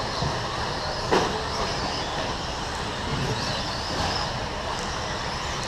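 Several 17.5 electric short course RC trucks running on the track: a steady mix of motor whine and tyre noise, with a few whines rising and falling. A sharp knock about a second in.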